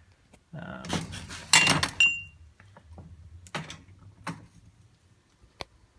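Metal exhaust parts clinking and knocking as a motorcycle exhaust baffle is handled. There is a cluster of clanks in the first couple of seconds, one of them leaving a brief metallic ring, then three separate taps.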